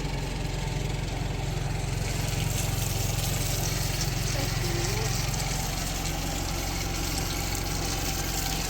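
Cement mixer running steadily with an even, low motor hum, the drum turning to mix cement mortar.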